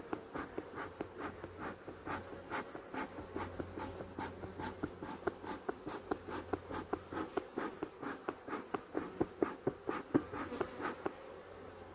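Honeybees buzzing around an open hive, over a quick, irregular run of soft scratching taps that stops about eleven seconds in.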